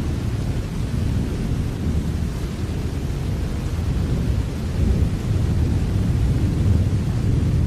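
Steady rain with a low, continuous rumble underneath, even throughout with no distinct thunderclap.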